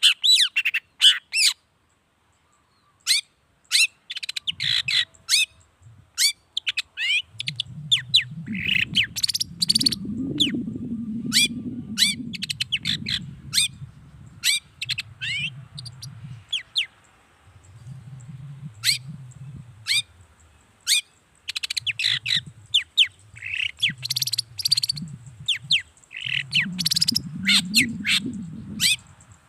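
Long-tailed shrike (cendet) singing in rapid bursts of short, sharp, sweeping notes, with brief pauses between bursts. A low rumble comes and goes beneath the song from about four seconds in.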